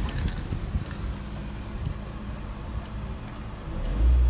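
Proton Preve's four-cylinder engine idling steadily just after a push-button start, with faint sharp ticks about twice a second. A louder low rumble swells about four seconds in.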